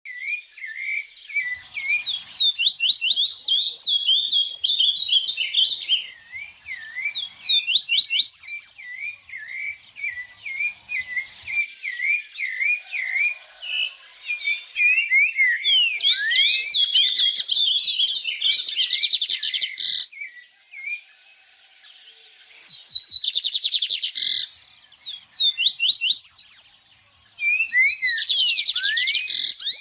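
Songbird singing almost without pause: quick, high chirps sliding up and down, broken by denser rapid trills, with short lulls a little past the middle and again near the end.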